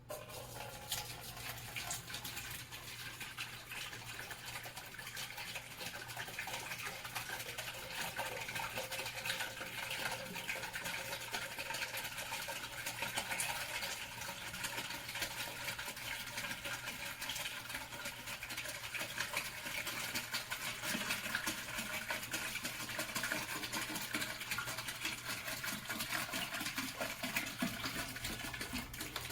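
Water pouring steadily into a humidifier's plastic tank, a continuous splashing that starts and stops abruptly.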